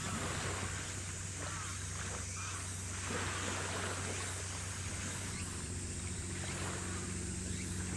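Steady low drone of a naval vessel's engines under way, over a constant hiss of wind and water.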